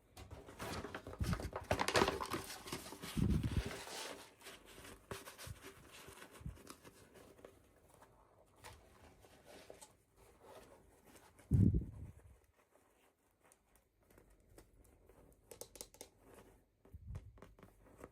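Plastic packaging being crinkled and torn open by hand, densest in the first few seconds and then lighter, with scattered soft thumps of handling and one louder knock about two-thirds of the way through.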